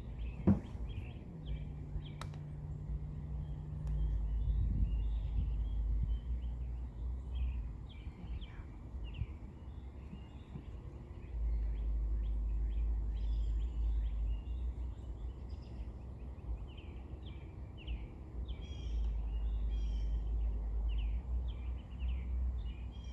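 Small birds chirping over and over, with a low rumble that comes and goes for several seconds at a time and a single sharp click about half a second in.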